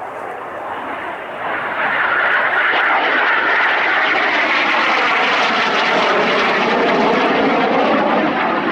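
Airliner's engines passing close by, growing louder about a second and a half in and then holding loud and steady.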